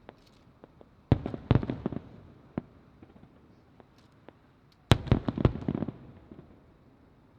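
Aerial firework shells bursting: a quick cluster of sharp bangs about a second in, a few lone pops, then a second cluster around five seconds in.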